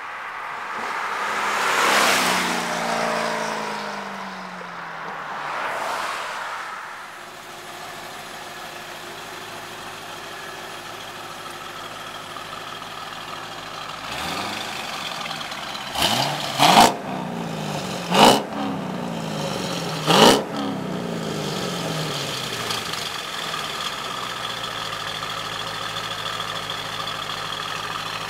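2003 Corvette Z06's stock 5.7-litre LS6 V8 driving past at speed, its engine note falling in pitch as it goes by, with a second, fainter pass a few seconds later. Then the engine idles at the quad exhaust tips and is blipped four times in quick revs, each dropping straight back to idle.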